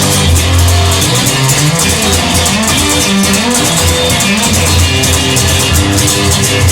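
Instrumental rock music: a guitar playing over bass guitar and a drum kit, with no vocals.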